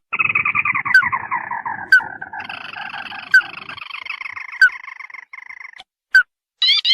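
Crake lure call: a long rattling trill that slides steadily down in pitch, then a second, higher trill that falls more slowly, punctuated by sharp, rising single notes roughly every second and a half.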